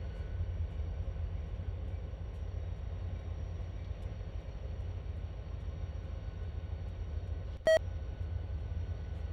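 Low-battery warning beep from a railroad radio scanner whose battery has gone dead: a single short, high beep about three-quarters of the way through, over a steady low rumble.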